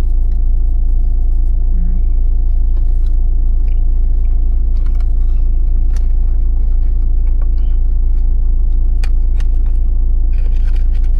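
Vehicle engine idling, a steady low drone heard from inside the cab, with scattered small clicks and rustles.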